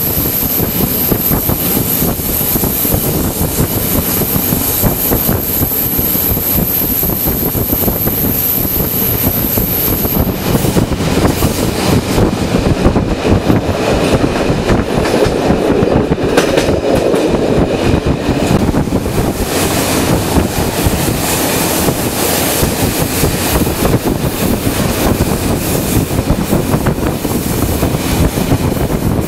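Passenger train running along the track: steady wheel and rail noise heard from inside the carriage. It grows somewhat louder around the middle. A thin, very high whine stops about a third of the way in.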